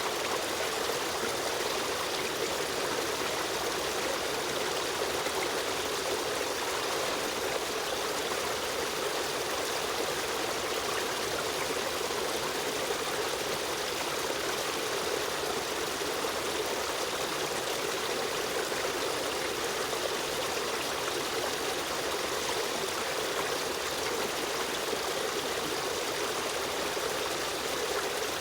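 River stream running steadily, an even rush of flowing water with trickling.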